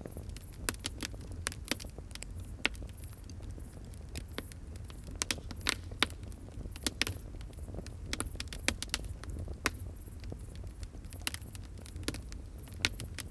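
Wood fire crackling, with irregular sharp pops and snaps of varying loudness over a steady low rumble.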